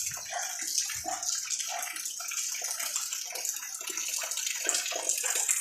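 Steady rain falling, a continuous hiss with many small drips and splashes.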